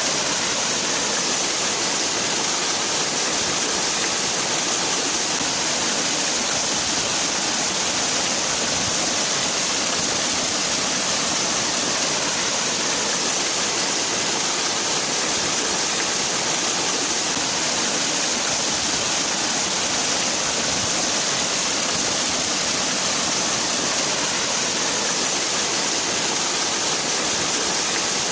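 Waterfall: falling water rushing steadily, a dense hiss with no breaks.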